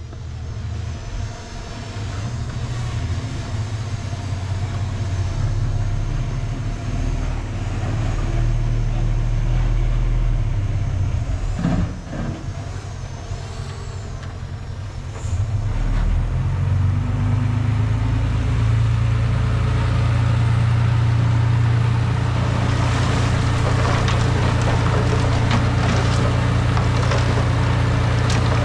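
Heavy diesel construction machinery running steadily. It gets louder about sixteen seconds in, and a rattling, crackling noise joins it in the last several seconds.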